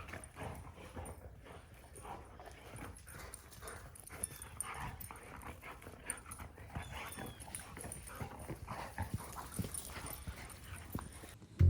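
A dog whining softly now and then, over scattered light knocks and rustling.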